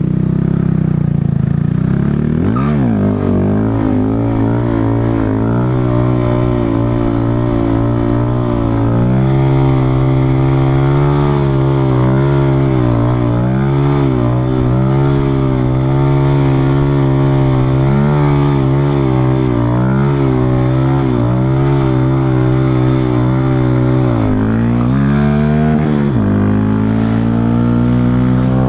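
2015 KTM 690's single-cylinder engine pulling the motorcycle along at a mostly steady pitch. Its revs dip and recover about two seconds in and again near the end, then climb in the last couple of seconds.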